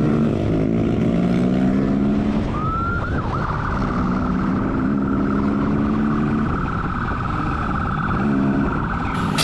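Motorcycle engine accelerating in repeated rising surges through the gears. A police siren sounds steadily from about two and a half seconds in.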